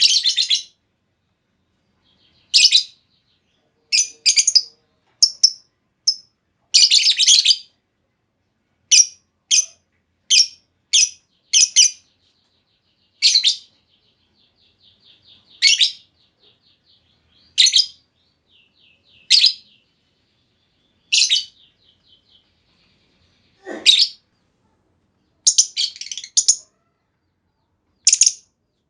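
Female lovebird calling: short, sharp, high-pitched chirps every second or two, some single and some in quick clusters of two or three. Through the middle a faint, rapid ticking trill runs between the calls.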